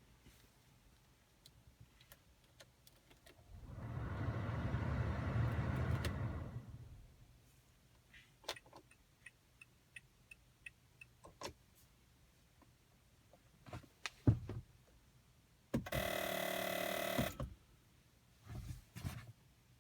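A 2015 Toyota Camry buzzing when the engine start is attempted: a buzz of about three seconds, then scattered clicks and faint ticking, and a second buzz of about a second and a half that starts and stops abruptly.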